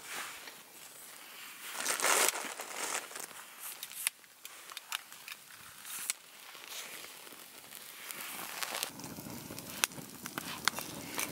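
Small wood fire being lit in a Bushbox XL camp wood stove: tinder rustling and crinkling as it is handled, with a hissing burst about two seconds in, then the kindling catching, crackling with sharp pops and a fuller rush of flame near the end.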